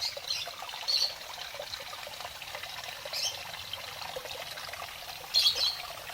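Small aviary waterfall: water pouring and trickling steadily, with a few brief brighter splashes, the loudest near the end.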